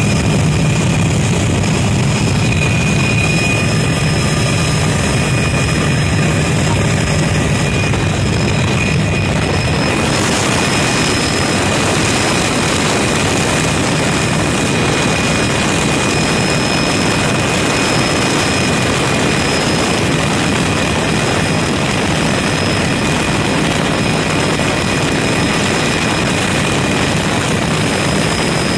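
Helicopter running close by: a steady high turbine whine over loud rushing rotor and engine noise, which becomes fuller about ten seconds in.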